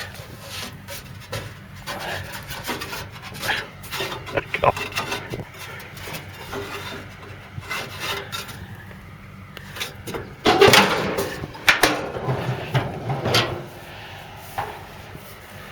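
Rubbing, scraping and knocking, with scattered clicks throughout and a louder, drawn-out scrape about ten and a half seconds in.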